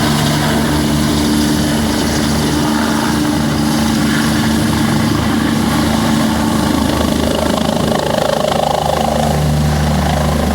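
Helicopter running loudly and steadily, its rotor blades beating in a rapid, even rhythm over the engine's steady tone.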